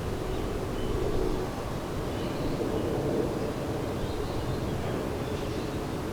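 Steady outdoor rumble with faint bird chirps over it.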